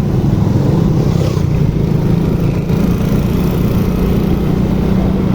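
Motorcycle engine running at a steady speed while riding, a low even hum under a continuous rush of wind and road noise.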